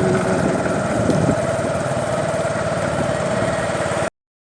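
An engine running steadily at idle with a fast, even chugging, cut off abruptly near the end.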